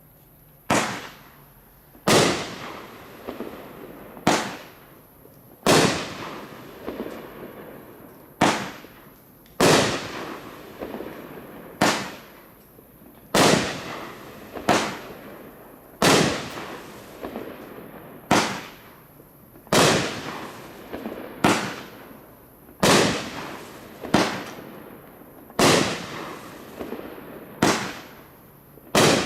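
Supreme 'Train Wreck' 500-gram multi-shot firework cake firing its shots one after another, beginning just under a second in. About eighteen sharp bangs come roughly every one to two seconds, each trailing off before the next.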